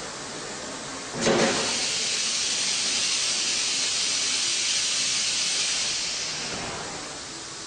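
Compressed air hissing out: a sudden loud rush of air starts about a second in, holds steady for about five seconds, then fades away.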